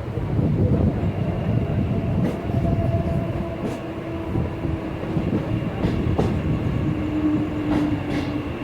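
Mumbai suburban local train running on the track: a steady rumble with a faint steady whine and a few sharp clicks.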